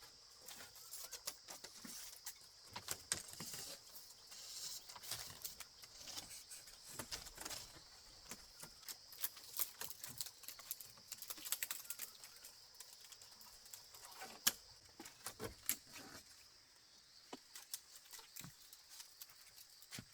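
Irregular light clicks, taps and knocks, some sharper than others, over a steady high chirring of insects.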